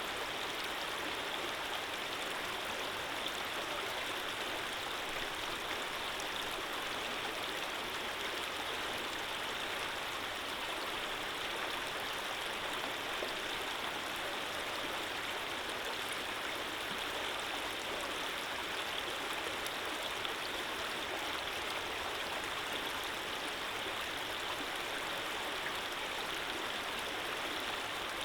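Running water flowing steadily, an even, unchanging rush like a stream.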